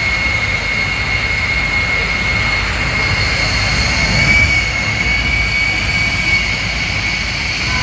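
Jet truck's jet engine running at full power: a steady, loud roar with a steady high-pitched whine over it.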